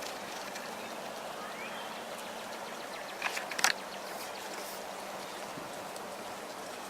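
Steady rushing of flowing river water, with a brief cluster of sharp sounds a little over three seconds in.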